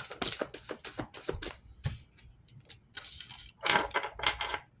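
A deck of cards being shuffled by hand: a quick run of light card clicks, then a denser papery flutter about three seconds in.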